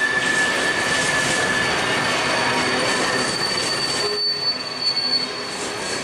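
BNSF freight train of open-top hopper cars rolling past, steel wheels on rail with a steady rolling noise and a thin high squeal. The squeal steps up to a higher pitch about two seconds in and stops near the end.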